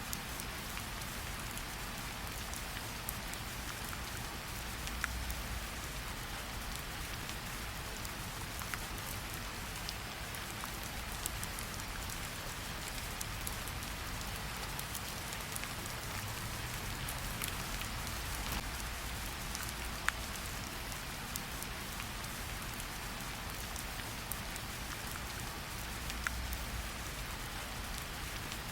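Steady rain falling, an even hiss with many small scattered drop ticks and a low rumble underneath.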